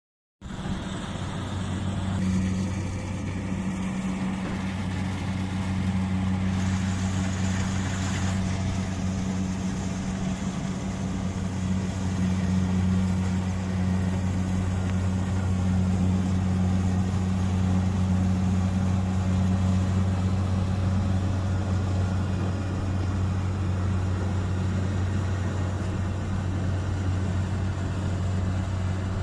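Kubota combine harvester's diesel engine running steadily at an even pitch.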